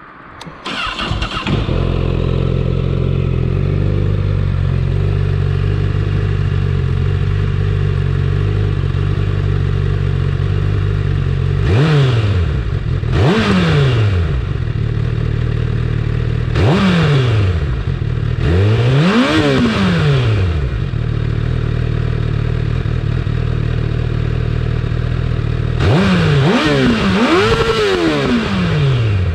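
2019 Honda CBR1000RR Fireblade's inline-four engine through its stock exhaust: it fires up about a second in and idles steadily. In the second half it is revved several times, each rev rising and falling quickly, with the biggest ones about two-thirds through and near the end.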